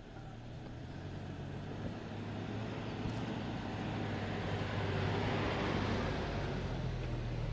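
A motor vehicle's engine running steadily, its noise swelling gradually louder through the first half and then holding.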